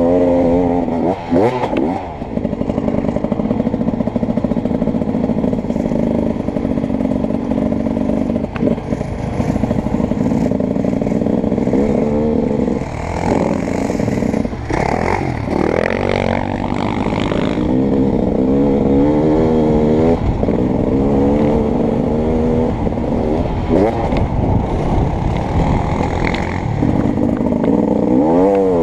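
Beta 300RX two-stroke dirt bike engine being ridden hard, its revs climbing and dropping over and over as the throttle is worked and gears change.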